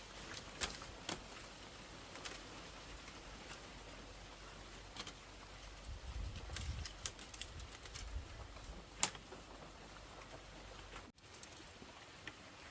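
Scattered light taps and clicks at an irregular pace, with one sharper click about nine seconds in, over a faint low rumble.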